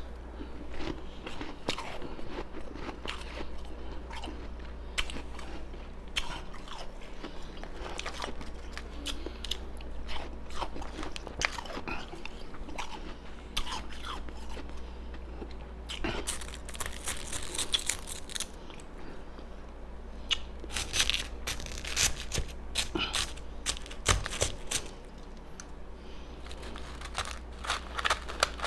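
Close-miked chewing of ice: irregular sharp crunches and cracking as ice is bitten and ground between the teeth. The loudest bursts of crunching come about halfway through and again in the last third.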